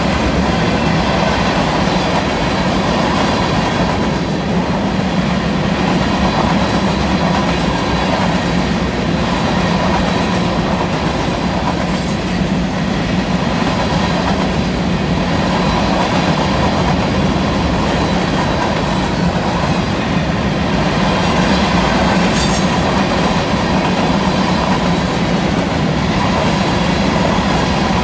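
Freight train's covered hopper cars rolling past on a curve: a steady, loud rumble of steel wheels on the rail.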